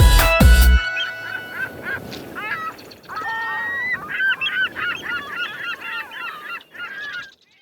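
The band's music cuts off about a second in, leaving gulls calling: a busy run of overlapping cries that stops abruptly just before the end.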